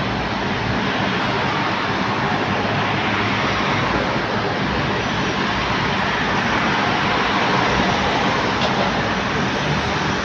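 Jet airliner engine noise: a steady, even rush with no clear rise or fall.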